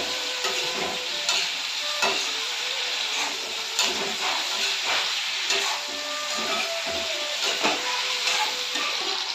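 Pork and green capsicum sizzling steadily as they fry in a metal kadhai, with a metal spatula scraping and knocking against the pan as it is stirred, about once a second.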